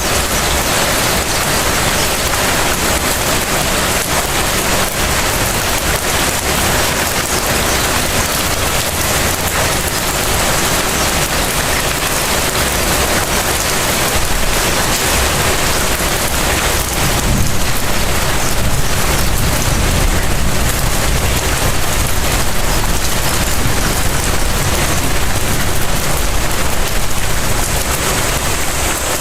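Steady light rain falling and pattering on surfaces, a dense even patter of many small drops with no let-up.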